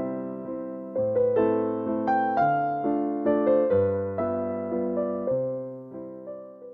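Solo piano music playing a slow melody of struck notes, each ringing out and decaying, fading away near the end.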